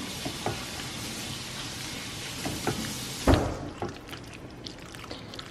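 Food sizzling in a hot pan, with small clinks of a utensil; the sizzle stops abruptly about three and a half seconds in, just after a loud knock.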